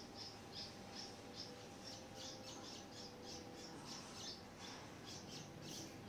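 Small birds chirping at a nest during feeding: a fast, even run of short, high chirps, about three a second.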